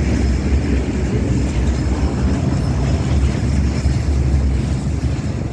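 Steady, loud low rumbling noise, strongest in the deep bass and fluctuating slightly, with no distinct events.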